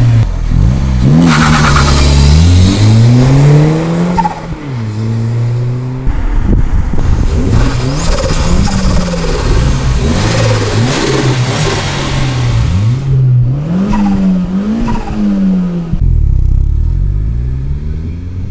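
Turbocharged four-cylinder of a MazdaSpeed Protege with a MagnaFlow cat-back exhaust, revving hard: the pitch climbs and drops back repeatedly as the throttle is opened and released.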